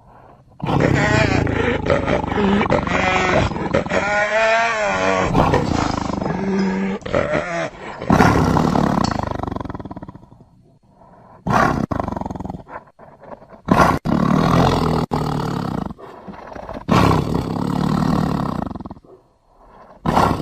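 Tiger roars mixed with hyena calls into one made-up animal voice: a long call of about seven seconds with a wavering, wobbling pitch near its middle, then a run of four shorter roars with brief gaps between them.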